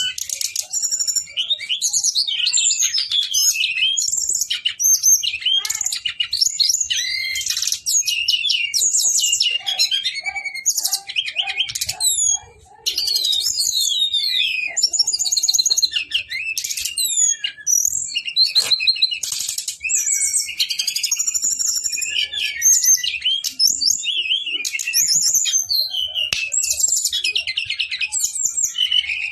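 Several sikatan rimba dada coklat (brown-chested jungle flycatchers) singing over one another in long, unbroken rolling phrases of fast, high warbles and whistles. The song breaks off briefly about twelve seconds in.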